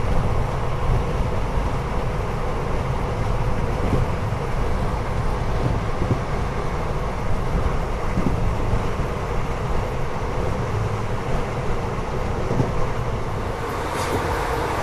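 Passenger train coach running at speed, about 108 km/h: a steady low rumble of wheels on rail.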